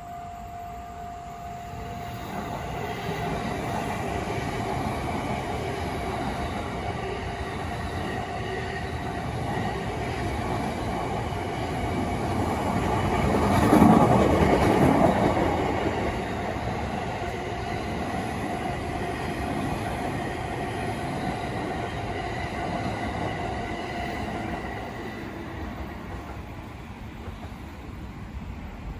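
A train passing a railway level crossing, its rumble building to a peak about halfway through and then fading away. The crossing's warning bell keeps sounding as a steady tone throughout.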